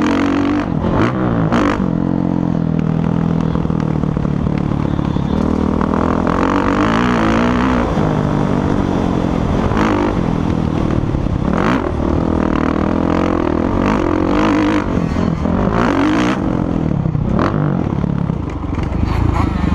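Motocross bike engines revving up and down as they ride, several pitches overlapping and rising and falling, with a few sharp cracks along the way.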